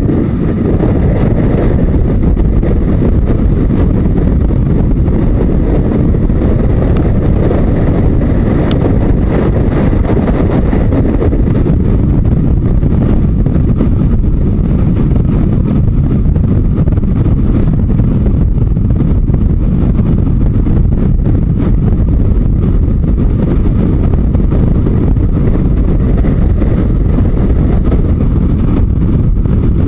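Steady wind rush over the microphone of a Yamaha Diversion 900 motorcycle riding at road speed, with the bike's running and road noise underneath.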